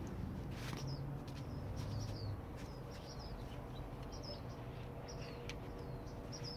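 Small bird chirping over and over, short high calls that drop in pitch, about two a second and often in quick pairs. A few sharp clicks or taps come in between, the strongest under a second in.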